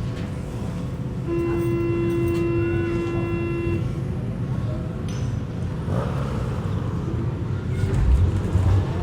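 A single steady horn blast held for about two and a half seconds, starting a second or so in, over a continuous low rumble of traffic.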